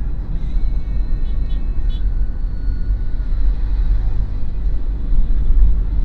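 Steady low rumble of engine and road noise inside the cabin of a 2013 Daihatsu Terios while it is driving, with faint high tones over it.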